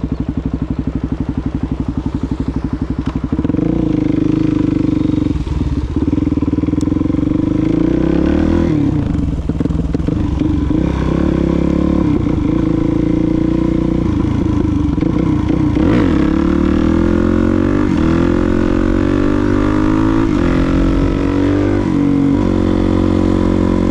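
Suzuki DR-Z400SM's single-cylinder four-stroke engine running at low revs with a slow, even pulse, then louder from about three seconds in, its pitch rising and falling again and again as the bike accelerates and shifts through the gears.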